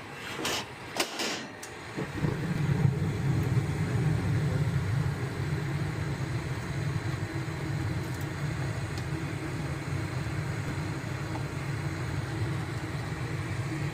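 A few clicks, then about two seconds in a gas furnace motor starts and runs with a steady low hum.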